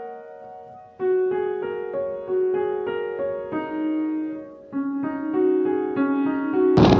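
Solo piano music: a slow, gentle melody of single struck notes, broken by a short pause about a second in. Right at the end it cuts abruptly to loud wind buffeting the microphone.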